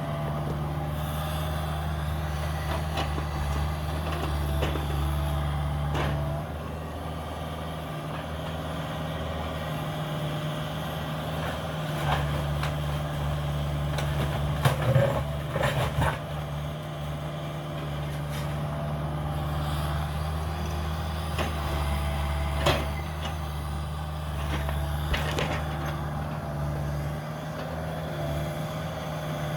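Cat 305 mini excavator's diesel engine running steadily, its pitch and load shifting as it works. Several sharp knocks and cracks sound over it, a cluster of them about halfway through being the loudest.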